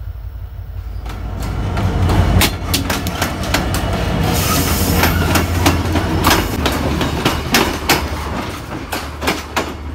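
A train passing at close range over the track: a heavy rumble with many sharp clacks of the wheels on the rails. It builds from about a second in and eases off near the end.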